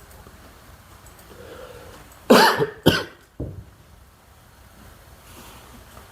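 A person coughs twice in quick succession, a little over two seconds in, followed by a shorter, lower throat sound.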